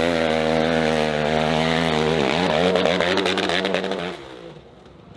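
Dirt bike engine running at high revs. About two seconds in the revs dip and climb again, and about four seconds in the engine sound falls away sharply.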